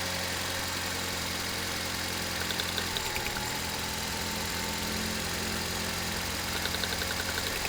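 Toyota Corolla four-cylinder engine idling steadily, with a couple of short spells of light rapid ticking. It is running smoother after the fuel injectors were swapped, and the misfire seems to be gone for now.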